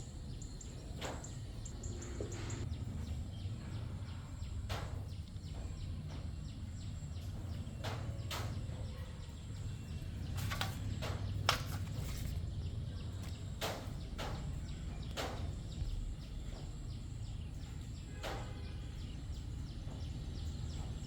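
Scattered sharp clicks and knocks, about nine of them at irregular intervals, over a low steady rumble.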